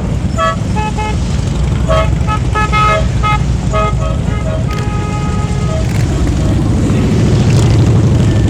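Many motorcycle engines rumbling as a column of bikes rides past, with horns tooting in many short blasts over the first five seconds, one held for about a second. The engine rumble swells near the end.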